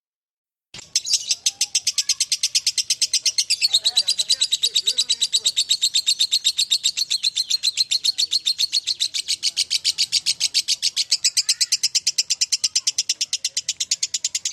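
Lovebird 'ngekek': one long, unbroken chattering trill of rapid, evenly repeated high notes, about eight a second. It starts suddenly about a second in.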